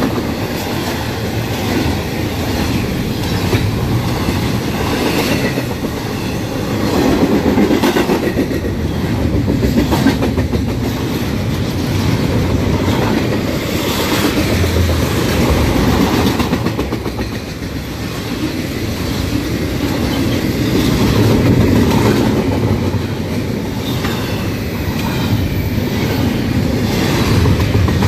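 A train rolling past close by, its wheels clicking rhythmically over rail joints over a continuous rumble that swells and eases slightly.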